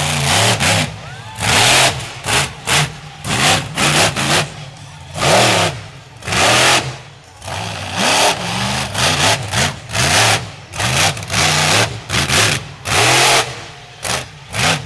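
Monster truck engine revving in repeated short, loud bursts, its pitch swooping up and down between blasts of throttle.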